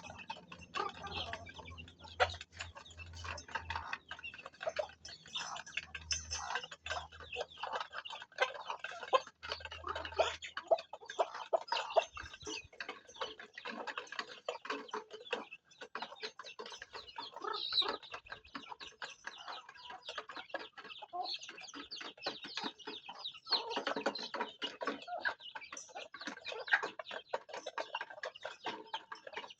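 Chickens clucking and calling while rapid, irregular pecking clicks sound as they feed. A faint low hum runs underneath for the first third and then stops.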